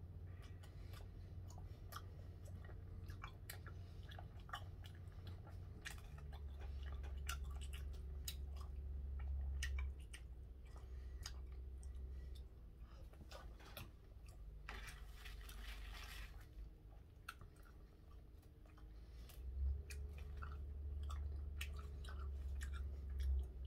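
A man chewing gwamegi (half-dried fish) close to the microphone, with wet mouth sounds and many small clicks and smacks. Wooden chopsticks tap now and then, and there is a brief rustle about fifteen seconds in.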